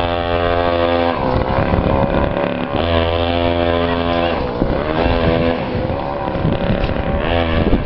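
Custom chopper motorcycle engine running as it is ridden: a steady note, then the pitch shifts up and down with the throttle about a second in, again around the middle, and once more near the end.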